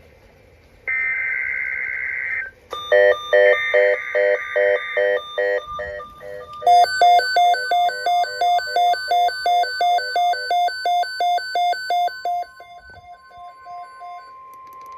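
NOAA Weather Radio alert sequence: a harsh, buzzy SAME digital header burst, then a steady 1050 Hz warning alarm tone that starts about seven seconds in. Quick pitched beeps at about four a second run over the tones from about three seconds in and fade out past the twelve-second mark.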